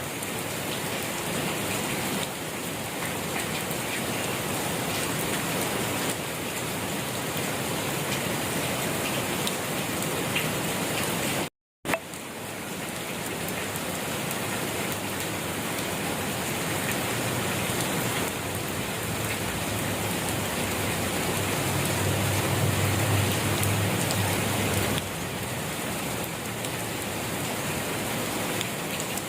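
Steady rain falling on surfaces, an even dense patter. The sound drops out to silence for an instant near the middle, and a low rumble runs under the rain in the second half.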